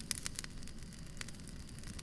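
Wood fire burning, with irregular sharp crackles and pops over a low steady rumble of the flames.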